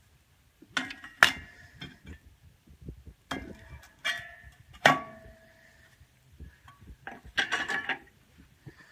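Loose metal clutch plates clinking and knocking together as they are handled and set down. There are several sharp knocks in three short clusters, some with a brief metallic ring, the loudest about five seconds in.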